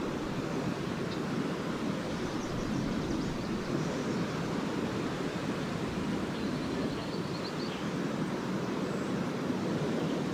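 Lake waves breaking and washing ashore in a steady, continuous surf, with a few faint high bird twitters about two and a half seconds in and again around seven seconds.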